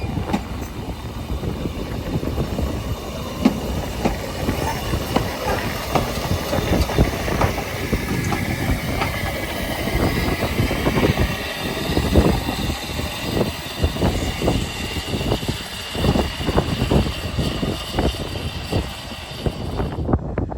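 Narrow-gauge railway train running, with a steady rumble and irregular clattering and knocking from the wheels on the track. A faint high whine comes and goes about halfway through.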